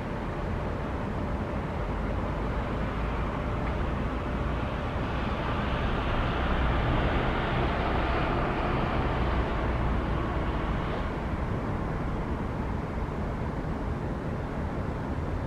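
Boeing 777-300ER's GE90 jet engines running, a steady rush that swells louder for several seconds about a third of the way in, then eases back.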